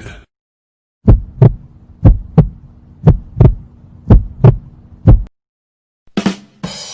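Heartbeat sound effect: deep thumps in lub-dub pairs, about one beat a second, four full beats and a last single thump, then it stops. Near the end a short burst leads into a hissing whoosh effect.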